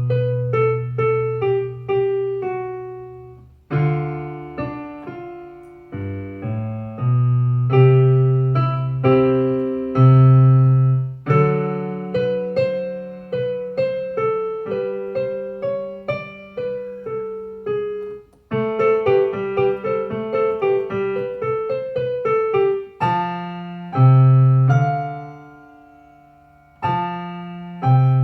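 Solo piano playing a pop-song mashup: a melody of struck, decaying notes over chords and low bass notes, with short breaks between phrases a few times.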